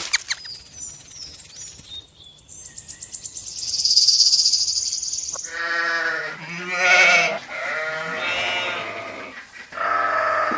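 Livestock bleating: a loud high hiss for a few seconds, then a run of wavering bleats from about halfway, with one more near the end.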